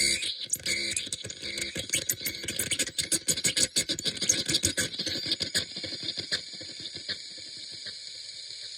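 Experimental electronic noise machine putting out dense, stuttering crackles and clicks that thin out about six seconds in, leaving a steady hiss with a few scattered clicks.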